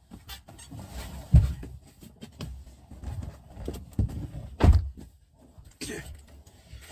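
Several dull thuds and knocks. The loudest come about a second and a half in and twice more around four to five seconds in, with lighter knocks between.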